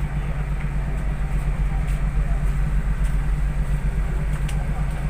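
Steady low drone of a passenger ship's engines, a constant deep hum with no change in pitch, heard on board, with faint background voices.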